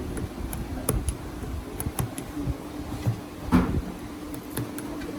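Irregular light clicks and knocks over a steady low hum, with one louder knock about three and a half seconds in.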